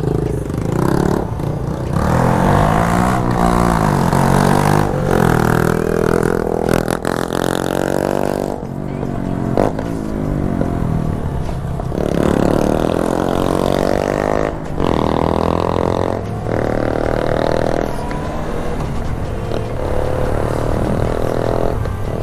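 Yamaha XJ6's inline-four engine accelerating under load, its note climbing and then dropping at each gear change, again and again.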